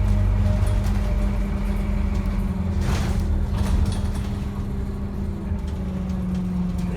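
Scania N230UD double-decker bus engine running steadily, heard from on board, with a short hiss of air about three seconds in.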